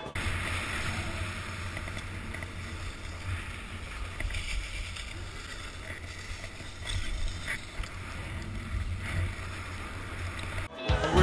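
Wind buffeting the microphone: a steady low rumble with a faint hiss.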